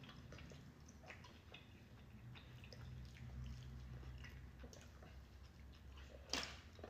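Faint, scattered small clicks and soft wet smacks of food being handled and chewed, with one sharper smack about six seconds in.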